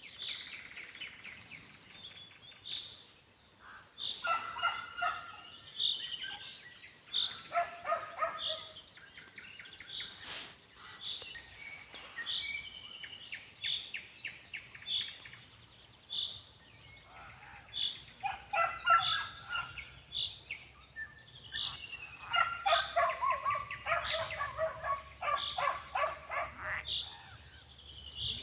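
Birds chirping and calling in the open. A short high note repeats about once a second, broken several times by bursts of rapid chattering.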